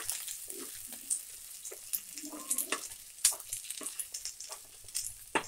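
Chicken 65 pieces sizzling in oil in a nonstick pan as they are tossed with a steel spoon, with a steady hiss and a few sharp clicks of the spoon against the pan.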